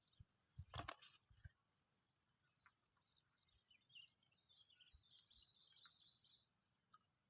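Near silence with faint bird chirping near the middle and a brief rustle about a second in.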